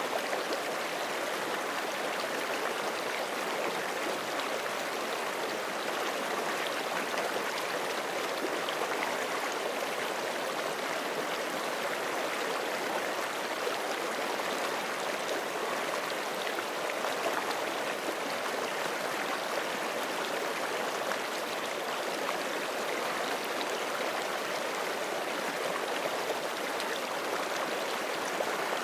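Forest creek flowing steadily over rocks, a continuous even rush of running water.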